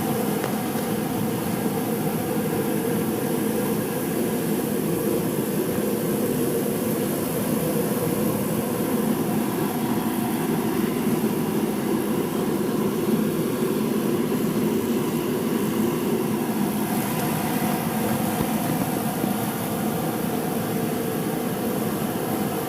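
A steady mechanical hum that runs evenly without change.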